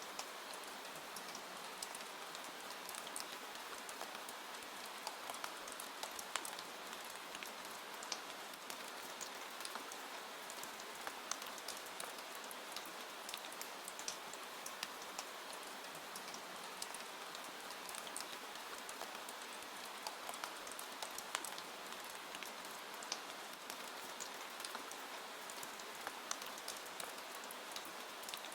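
Steady rain falling, with many individual drops landing close by as sharp little ticks scattered throughout.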